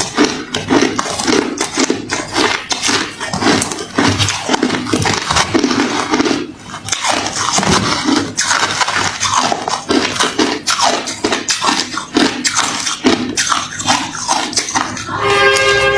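Person chewing hard refrozen crushed ice close to the microphone: dense, continuous crunching with a short break about six and a half seconds in. Near the end there is a brief pitched hum.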